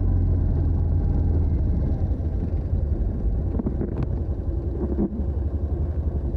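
Stock exhaust of a TVS NTorq 125 scooter's single-cylinder four-stroke engine running with a low, steady note; after about two seconds it turns less even and slightly quieter, with a few short knocks near the end.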